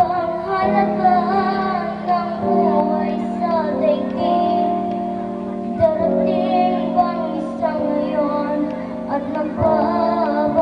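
A young girl singing a song over a backing track with sustained chords.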